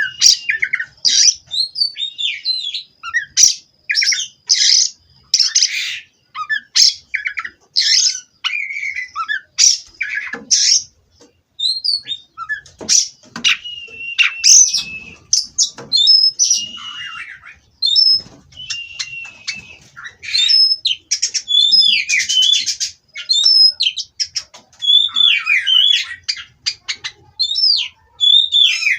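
Oriental magpie-robin (kacer) singing loudly: a fast, varied string of short whistled phrases mixed with harsh, scratchy notes, coming in quick bursts with brief gaps.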